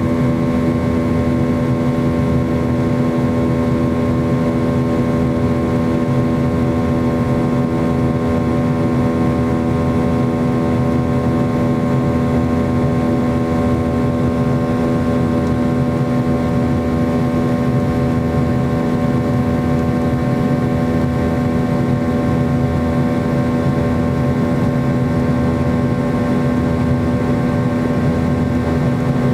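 Steady drone of the McDonnell Douglas MD-90's IAE V2500 turbofan engines heard from inside the cabin: a constant low rumble with a steady hum that holds the same pitch and level throughout.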